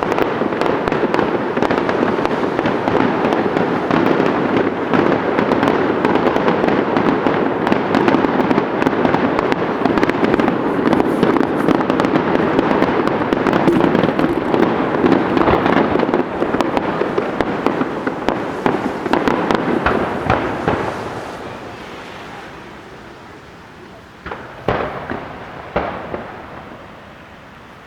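Fireworks display: a dense run of rapid bursts and crackling for about twenty seconds that dies away, followed by two separate bangs a second apart.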